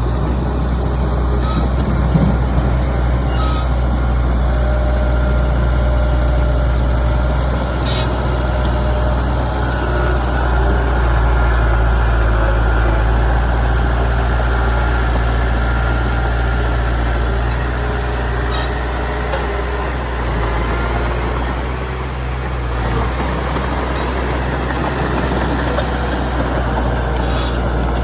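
Heavy diesel engine of earth-moving machinery running steadily with a constant low drone, with a few brief sharp clicks or clanks scattered through it.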